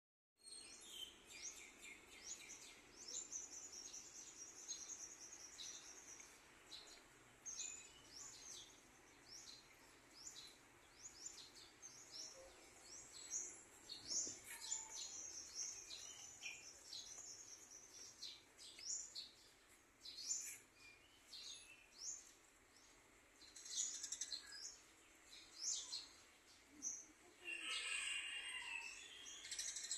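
Small birds chirping and calling over and over in short, high-pitched notes, with a denser flurry of calls near the end.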